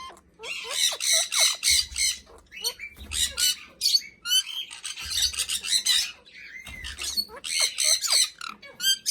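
Pet parrots squawking: harsh, high screeches in repeated bouts of about a second each, mixed with short whistled notes.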